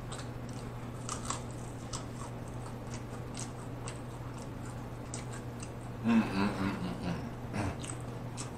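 Chewing of a fried chicken wing, with small crunches and mouth clicks scattered through. About six seconds in comes a short low vocal hum from the eater.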